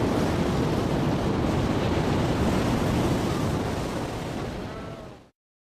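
Ocean waves and surf rushing steadily, fading out about five seconds in and then cutting to dead silence.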